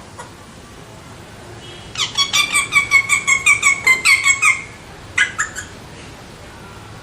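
A parrot squawking: a fast run of harsh, rasping calls, about five a second for two and a half seconds, then a short pause and two more calls.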